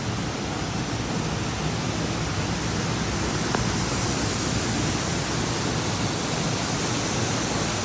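Steady, even rushing noise, with a faint click about three and a half seconds in.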